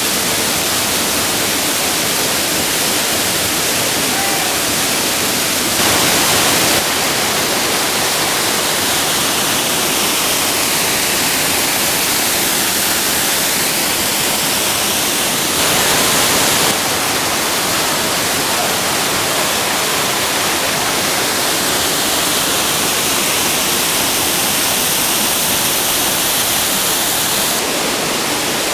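Waterfall falling into a pool: a loud, steady rush of water, which swells briefly twice for about a second each.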